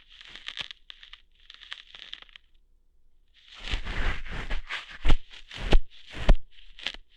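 Close-miked ASMR crackling and scraping right at the microphone's ear, staged as ear hair being plucked out. Soft rustling comes first. After a short pause there is louder crackling with three sharp pops about half a second apart.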